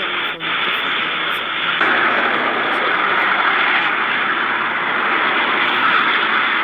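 Steady road and wind noise of a moving car, an even rushing sound with no clear engine note, stepping up in level about two seconds in.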